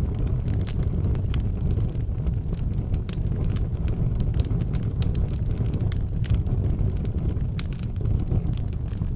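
Wood fire burning in an outdoor fireplace, with frequent irregular sharp crackles and pops over a steady low rumble.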